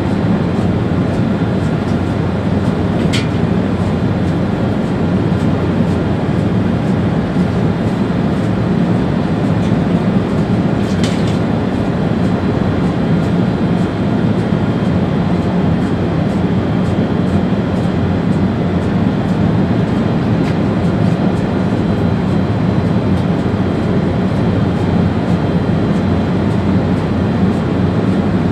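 ÖBB Railjet high-speed train running at speed, heard from the driver's cab: a steady low rumble of wheels on rail, with two short high-pitched sounds about three and eleven seconds in.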